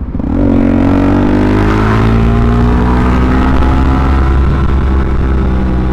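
Suzuki DRZ400SM's single-cylinder four-stroke engine running through a full Yoshimura RS-2 exhaust at a steady speed. Its pitch rises slightly over the first couple of seconds, then holds.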